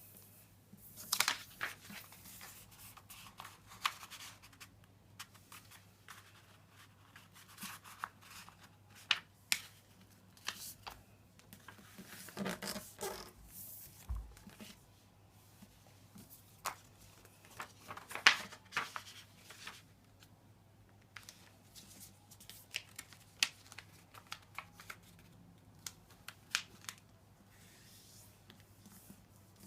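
A sheet of paper being handled, folded and creased by hand, with rustling and sharp crackles at each fold, over a faint steady hum.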